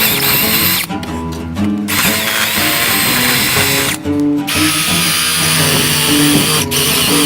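Power-driven wire wheel scrubbing rust off a steel ball peen hammer head, a harsh high-pitched hiss that stops and starts again several times. Acoustic blues guitar music plays underneath.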